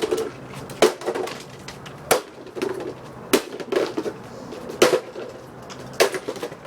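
A hammer striking a coffee maker in repeated blows, about five hard hits spaced a second or so apart, with lighter knocks and rattling in between.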